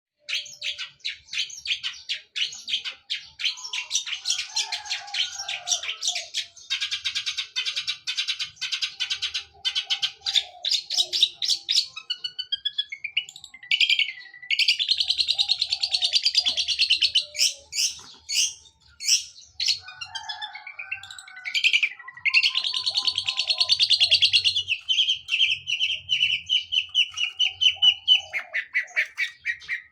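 Long-tailed shrike (cendet) singing hard in long runs of rapid, sharp chattering notes, mimicking the chatter of fighting Eurasian tree sparrows, with a steadier trill near the end.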